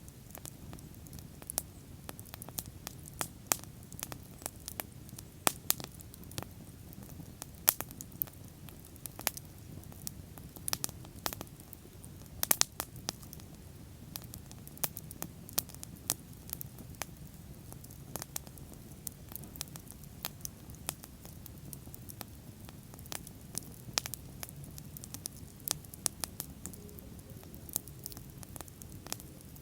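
Wood bonfire burning, with irregular sharp crackles and pops several times a second, some much louder than others, over a steady low rumble of flame.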